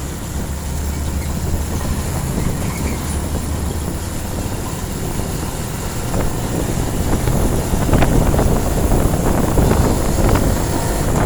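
Heavy truck engine running, with tyre and road noise: a steady low hum that grows louder and rougher, with rattling, over the last few seconds.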